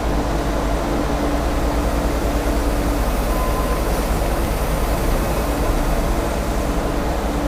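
Semi truck's diesel engine running, a steady low rumble with a faint hum that comes and goes.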